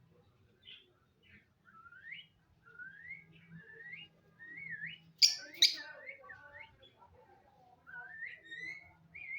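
Indian ringneck parrot making a run of short rising whistles, then two sharp, loud squawks about five seconds in, then more rising whistles.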